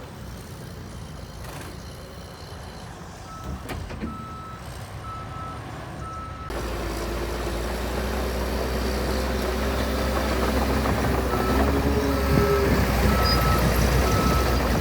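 Heavy earthmoving machine's backup alarm beeping at a steady pace, a little over one beep a second, over a diesel engine's low rumble. About halfway through the engine sound changes abruptly and grows louder, and the beeping comes back near the end.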